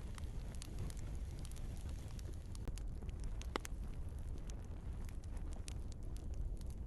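Log fire crackling in a fireplace: a steady low rumble of the flames with scattered sharp pops, the loudest about three and a half seconds in.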